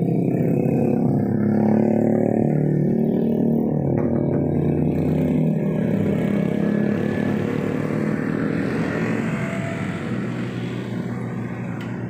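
A heavy vehicle's engine running as it passes, its pitch shifting up and down, then fading over the last few seconds.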